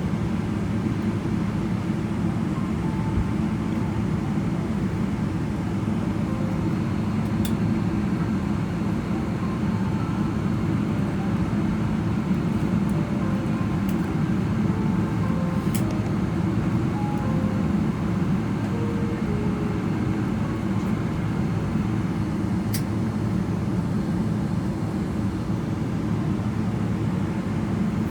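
Steady low rumble inside a Boeing 777-300ER cabin while its GE90 engines idle at the gate, before shutdown. A few faint clicks come through it.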